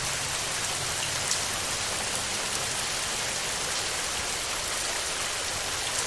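Heavy rain falling on a tin roof: a steady, dense hiss with a few sharper drop ticks.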